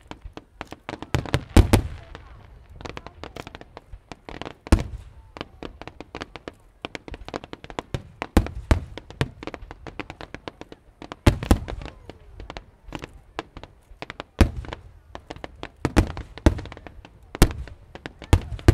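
Fireworks show: aerial shells bursting in an irregular string of loud bangs, some deep booms, with quick clusters of crackling reports between them.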